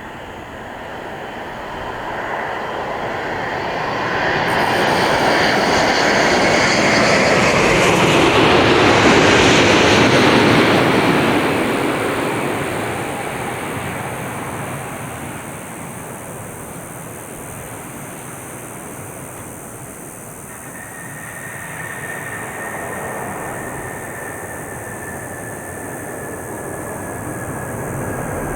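Jet airliner passing low overhead, its engine noise swelling to a peak about nine seconds in and then fading. A thin, faint whine follows later, slowly falling in pitch.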